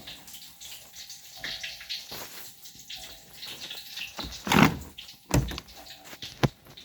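Water running or splashing, with two loud knocks about two-thirds of the way through and a sharp click near the end.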